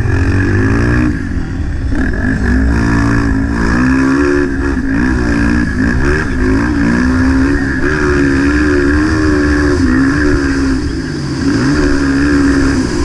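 Motocross bike engine in the 230 cc class revving hard, its pitch rising and dropping again and again as it accelerates, shifts and backs off around the track, with brief drops in level about a second in and near the end.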